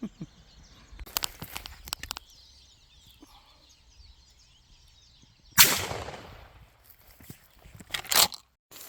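A single shotgun shot about five and a half seconds in, sudden and loud, dying away over about a second. Before it, faint bird chirping and a few clicks.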